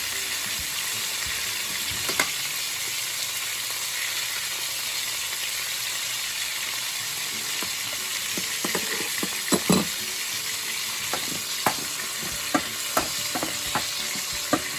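Steak, mushrooms and asparagus sizzling steadily as they fry in pans, the steak in olive oil and the vegetables in butter. A run of light, sharp knocks comes in over the sizzle in the second half.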